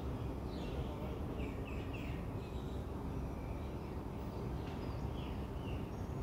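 Birds chirping in short, repeated calls over a steady low background rumble.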